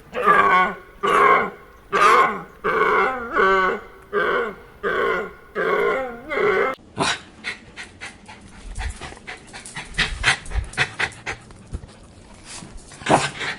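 A dog barking over and over, about ten loud barks a little over half a second apart. Then the sound cuts to a quieter run of many short, sharp sounds.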